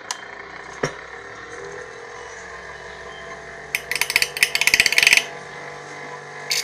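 A Vigorein 6-inch bench grinder running with a steady hum. About four seconds in, a nail is pressed against the spinning grinding wheel, giving a harsh, rasping grind of rapid repeated contacts for about a second and a half.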